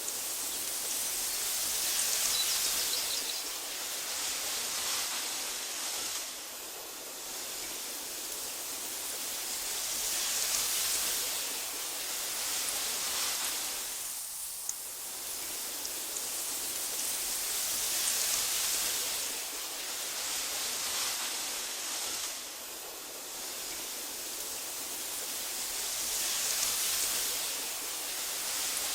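Breeze blowing through tall meadow grass, a soft rustling hiss that swells and eases in gusts every few seconds.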